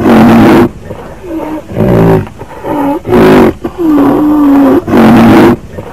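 A series of loud roaring calls from a large animal, each lasting under a second, with brief gaps between them.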